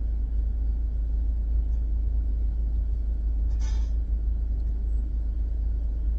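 Car engine idling, heard from inside the cabin as a steady low rumble. A brief burst of noise about three and a half seconds in.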